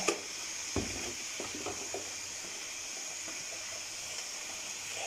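Chicken and spices sizzling in hot oil in a large aluminium pot: a steady hiss, with a few light knocks in the first two seconds.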